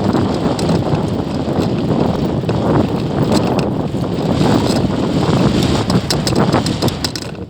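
Strong wind buffeting the microphone: a loud, gusting rumble that eases near the end.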